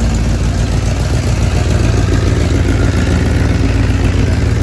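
Superbike engine running steadily at low revs, with no revving.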